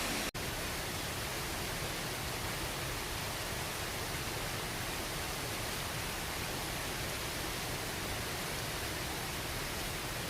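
Waterfall rushing steadily, a constant even roar of falling water, with a brief break in the sound just after the start.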